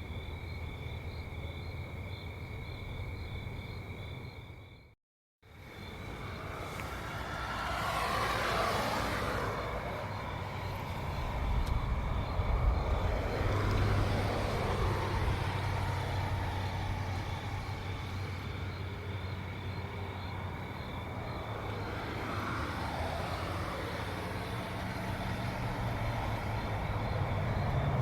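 Crickets chirp steadily, then the sound cuts out briefly about five seconds in. After that, several cars pass by one after another, each one's tyre and engine noise rising and then falling in pitch as it goes by. A low engine rumble sits underneath, and the crickets keep chirping throughout.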